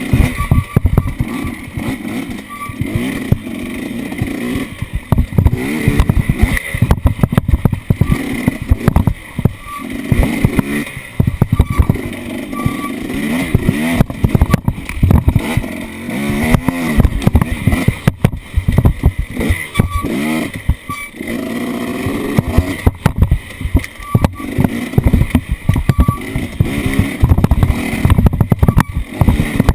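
Off-road vehicle engine running and revving up and down over and over, with frequent sharp knocks and bangs throughout.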